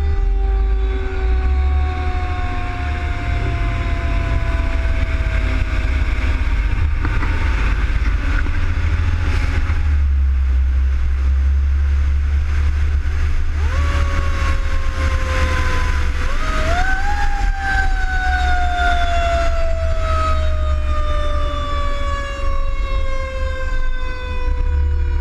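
Fire engine siren winding slowly down in pitch, climbing again about 16 seconds in, then falling slowly once more, over the steady low rumble of the truck's engine and road noise.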